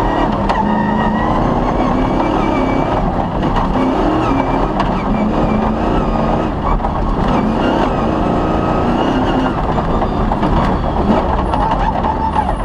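Off-road rally car's engine running hard under load, its pitch rising and falling as it revs, over a steady rumble of tyre and gravel noise with a few short knocks.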